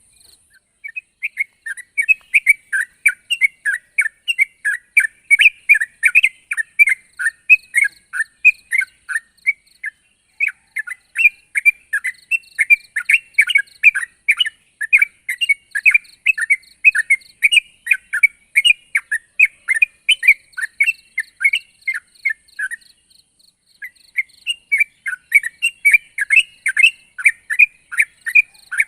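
Yellow-vented bulbul (trucuk) singing: a long, fast string of short bubbly notes, breaking off briefly twice. It is the lusty 'gacor' song used to call up rival birds.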